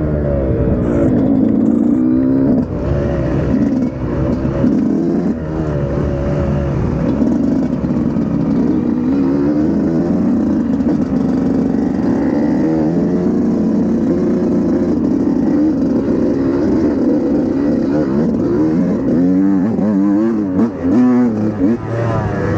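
Dirt bike engine revving up and down as it is ridden, the pitch climbing and dropping with each twist of the throttle and gear change.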